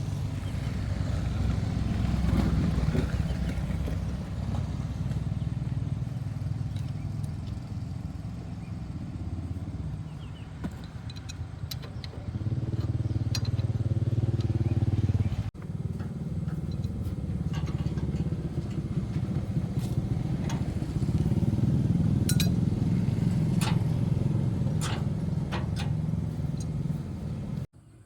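Car engine running with a steady low rumble, with scattered light clicks and knocks over it. The sound breaks off abruptly twice, about halfway through and just before the end.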